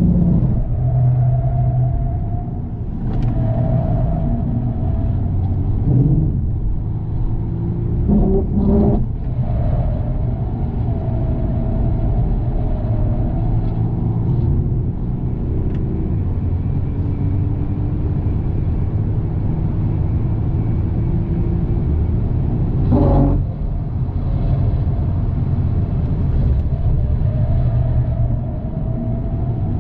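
Car running with a steady low rumble and a higher-pitched metallic rattling noise over it, broken by a few brief knocks.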